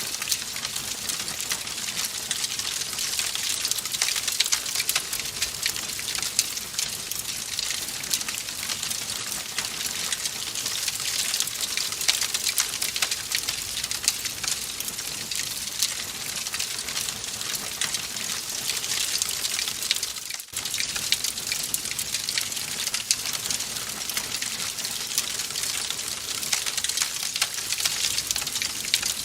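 Wood fire crackling in a fireplace: a steady hiss thick with small pops and snaps, with a brief drop-out about twenty seconds in.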